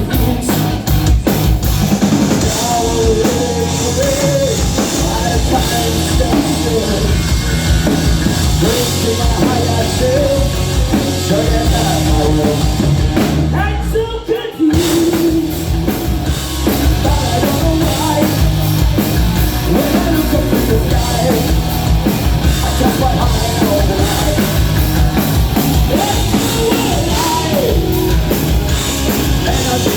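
Loud rock music with a drum kit and a singing voice, with a brief drop-out about halfway through.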